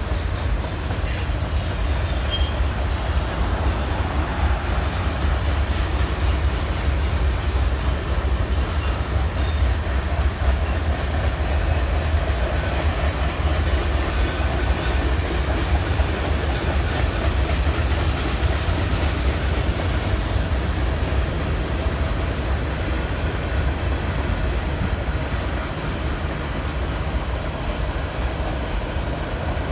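Train cars rolling past on the rails with a steady heavy rumble. Brief high-pitched wheel screeches and clicks come in the first ten seconds or so.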